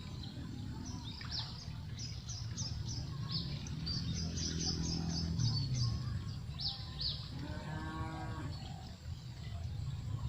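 A cow mooing in one long, low call around the middle, followed by a shorter, higher call about eight seconds in. Small birds chirp rapidly over the first seven seconds, over a steady low rumble.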